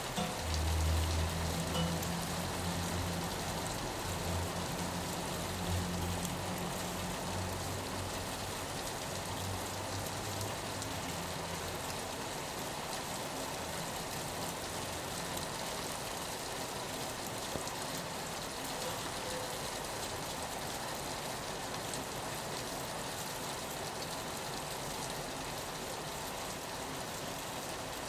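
Steady rain on a window, an even hiss throughout. A low rumble sits under it for the first twelve seconds, loudest near the start and then fading away.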